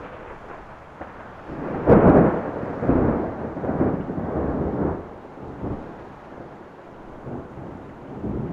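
Thunder: a sharp thunderclap about two seconds in, rolling on in several surges for about three seconds, then easing to a lower rumble.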